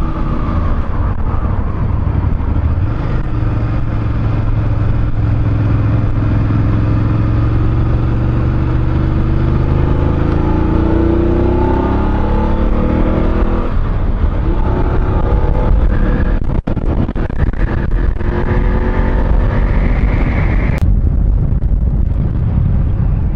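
BMW F 850 GS parallel-twin engine under way with wind rush, revs climbing as the bike accelerates through the gears, with a short dip at a gear change a little past the middle. Near the end the engine note drops suddenly as the throttle closes for braking.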